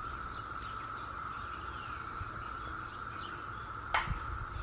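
Steady, even drone of insects in the trees, with a few faint bird chirps over it and a single brief click about four seconds in.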